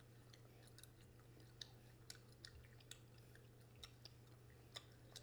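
Faint chewing of a spicy meat snack stick: small irregular clicks and smacks over a low, steady room hum.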